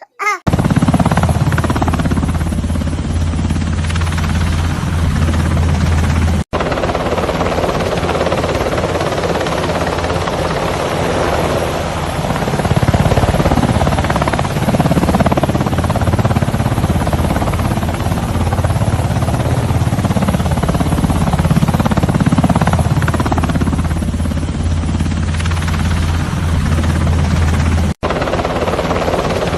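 Helicopter running steadily: rotor chop over engine noise, with a strong low throb. It cuts out for a split second twice, about six seconds in and near the end.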